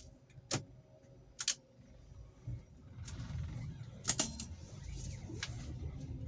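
Car engine running, heard from inside the cabin: a low rumble that grows louder about three seconds in as the car moves forward. Several sharp clicks or knocks come over it, about a second apart early on and a double click later.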